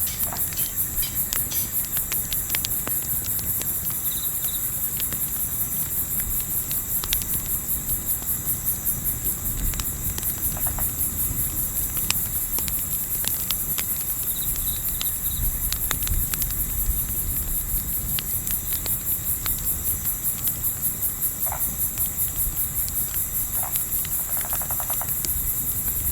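Crickets chirping in a dense, steady, high-pitched pulsing chorus over a low rumble, with scattered small crackles of a campfire.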